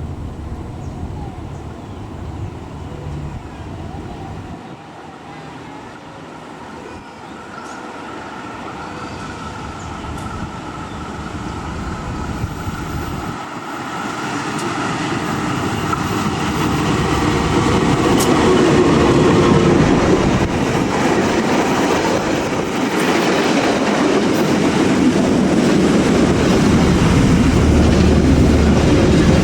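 KA Dhoho diesel-hauled passenger train approaching along the line, growing steadily louder over the first half, then running close by with a steady loud rumble and clatter of wheels on the rails.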